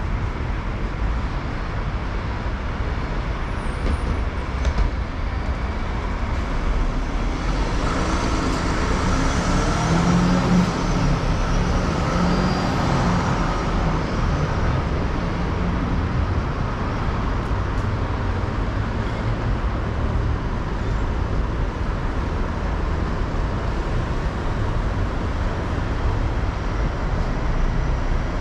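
City street traffic: a steady rumble of passing cars and buses, with one louder vehicle going by about eight to sixteen seconds in.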